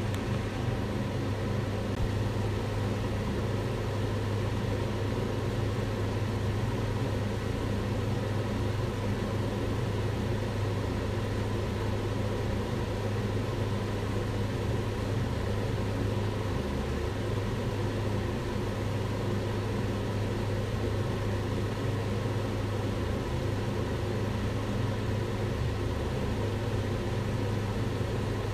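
Kitchen range hood fan running steadily: an even rush of air with a constant low hum.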